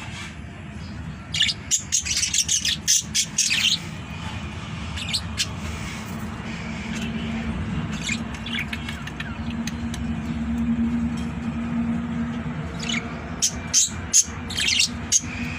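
Pet parrot giving two bursts of rapid, sharp chirps and squawks: one about a second and a half in lasting about two seconds, and another near the end. A steady low hum runs underneath.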